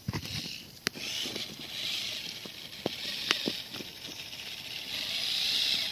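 Radio-controlled scale trail truck crawling slowly over rough ground: a steady whir from its motor and gears, with a few sharp clicks and knocks from the tyres and chassis.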